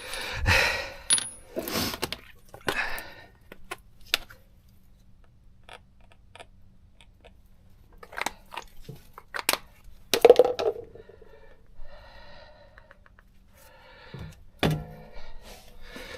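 Metal tools and brake parts clinking and knocking as they are handled, in scattered sharp strikes, with one louder ringing metallic clank about ten seconds in.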